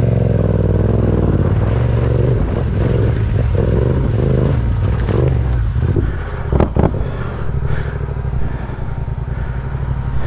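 A motorcycle engine running, with a sharp clatter about six and a half seconds in.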